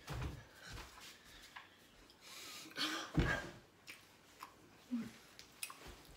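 Eating noises: chewing with scattered soft clicks and rustles as food is handled, and a louder thump a little after three seconds in.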